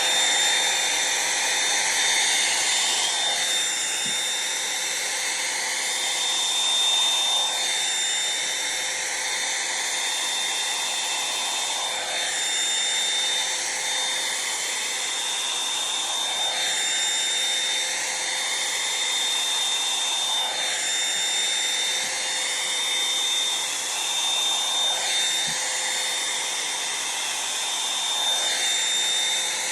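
Revlon One-Step hot-air brush dryer running steadily with a high whine, its airflow sound swelling and shifting every four seconds or so.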